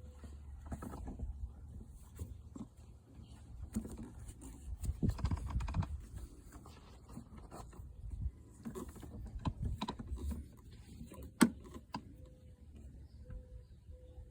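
Small screws being backed out with a Phillips screwdriver from the gear selector housing and plastic console: scattered light clicks, taps and handling rattles, with one sharp click about eleven seconds in.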